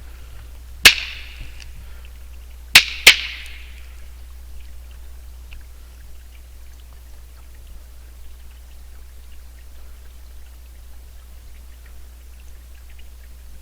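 Two rocks struck together as a call: one sharp clack, then about two seconds later a pair of clacks in quick succession, each ringing out with an echo.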